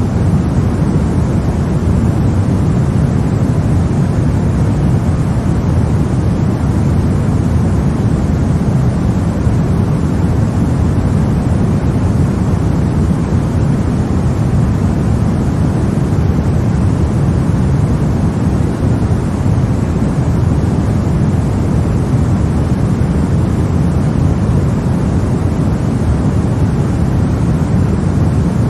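Steady, unchanging white noise for a baby's sleep, weighted toward the low end so that it sounds like a deep, even rumble rather than a bright hiss.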